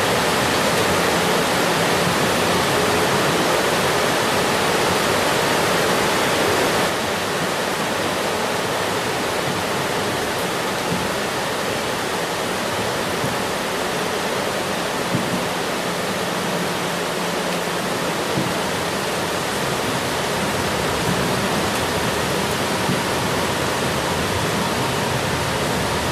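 Steady rain, an even hiss across the whole range, dropping slightly in level about seven seconds in.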